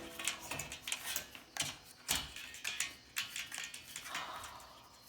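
Irregular clicks, taps and knocks of small hard objects being handled and moved, with a few louder knocks in the first couple of seconds.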